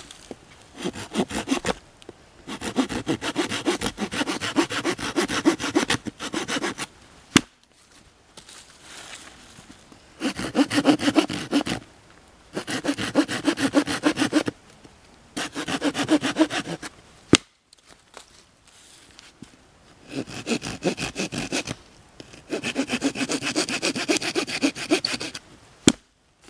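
Hand saw cutting through wood in runs of quick back-and-forth strokes, each run lasting a few seconds with short pauses between them. A few single sharp clicks fall between runs.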